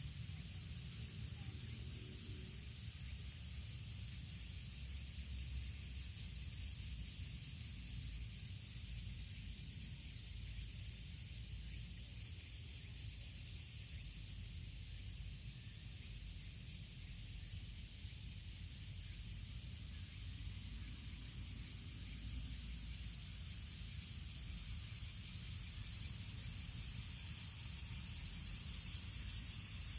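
Steady, high-pitched insect chorus with a fine rapid pulse, over a low rumble; it grows louder over the last several seconds.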